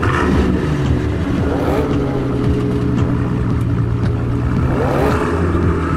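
Mercedes-Benz S65 AMG's twin-turbo V12 idling, revved briefly twice, about a second and a half in and again near the end.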